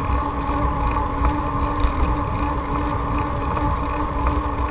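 Steady riding noise: low wind rumble on the microphone under a constant hum that holds one pitch.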